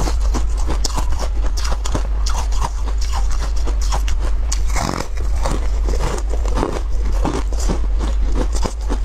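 Close-miked biting and chewing of a yellow spongy food, full of small, irregular crunching and crackling clicks, over a steady low hum.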